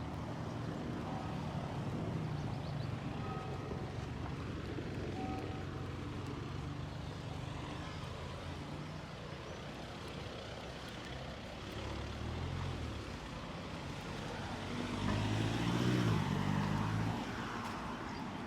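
Street traffic: motor vehicle engines running steadily, with one vehicle passing close and growing louder near the end before fading away.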